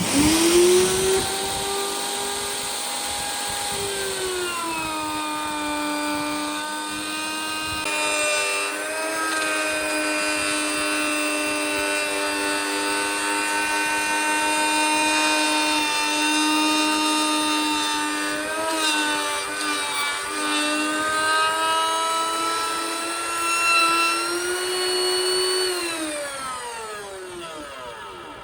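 An electric power tool's motor starts up and runs at a steady, high whine, its pitch dipping slightly about four seconds in and wavering briefly a couple of times, then winds down with falling pitch near the end.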